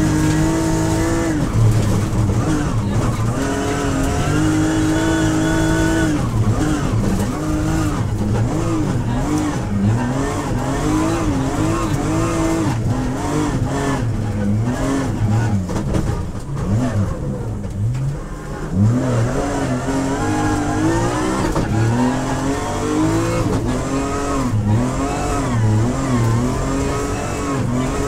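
BMW M3X rally car's engine heard from inside the cabin, revving hard and rising and falling in pitch as it shifts up and down through the gears on and off the throttle. About two-thirds of the way through, the engine note drops briefly, then climbs again.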